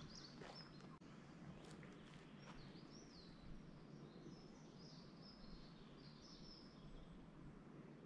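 Faint birdsong: a small songbird's high chirping and warbling phrases, over a soft steady hiss. A few soft footsteps on a dirt path in the first three seconds.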